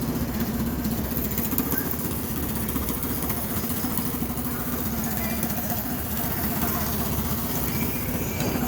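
Old car's engine idling steadily, a constant low rumble.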